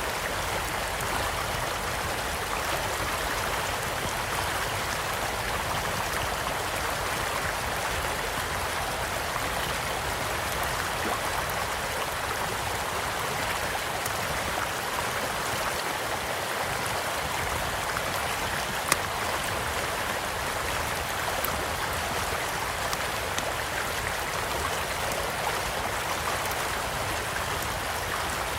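Small stream flowing steadily, with sparse crackles from a campfire and one sharp pop about two-thirds of the way through.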